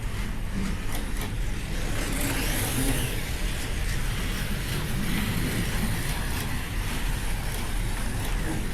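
Several slot cars running laps on a racing track: their small electric motors, gears and tyres make a steady, continuous noise.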